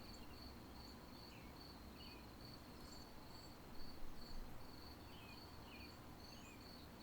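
Faint cricket chirping: a high note pulsing at a quick, even rate, with a few short chirps over it and a brief louder sound about four seconds in.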